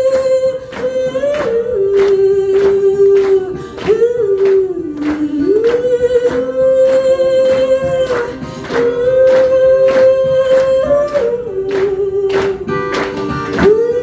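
A woman's voice sings a wordless melody in long held notes that slide between pitches, over a steady percussive beat of about two strikes a second.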